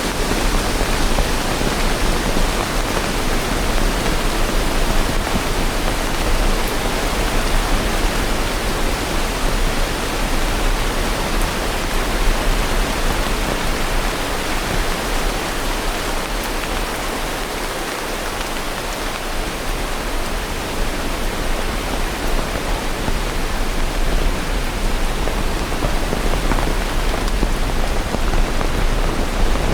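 Steady rain falling, a dense even hiss that eases slightly for a few seconds a little past the middle.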